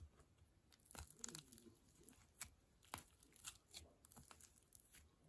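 Faint crinkling and rustling handling noise with scattered small clicks and taps, like paper or plastic being handled and torn.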